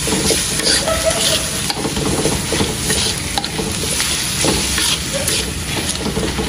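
Blended shallot, garlic and chilli paste sizzling in hot oil in a wok, stirred with a spatula that scrapes across the pan in repeated strokes. The paste is being sautéed until fragrant.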